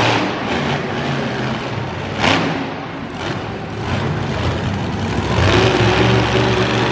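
A monster truck's engine running and revving, with a brief louder surge about two seconds in and a steady held engine note from about five and a half seconds in.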